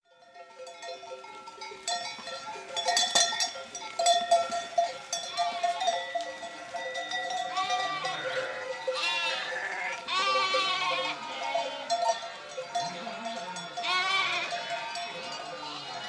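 A flock of livestock wearing neck bells: the bells clank and ring throughout while several animals give quavering bleats, about four times, with the loudest calls near the middle and end.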